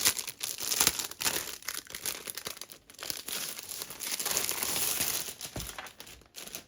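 Packaging for a diamond painting kit being opened by hand: crinkling and rustling in quick, uneven bursts, with some tearing.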